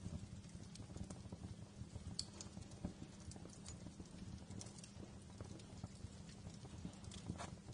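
Wood fire crackling, with irregular sharp pops and snaps over a low, steady rumble of burning.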